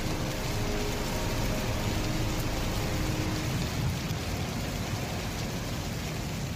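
Heavy rain falling steadily, with a low rumble underneath, easing off slightly toward the end.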